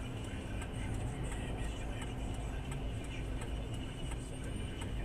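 Car cabin noise from a moving car: a steady low engine and road rumble, with a light, regular ticking a few times a second.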